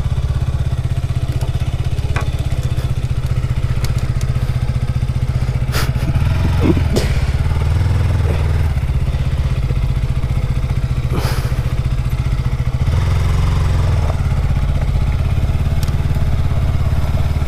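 KTM Duke 200's single-cylinder engine running steadily as the motorcycle is ridden, with a few brief knocks and clatters.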